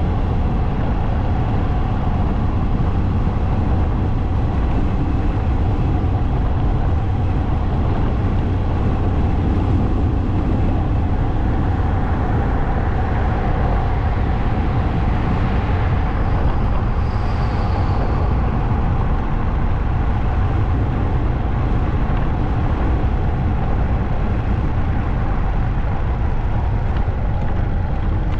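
Motorcycle running at a steady cruising speed, with wind and road noise. Partway through, a brighter rush of passing-traffic noise swells and fades, ending in a brief high squeal.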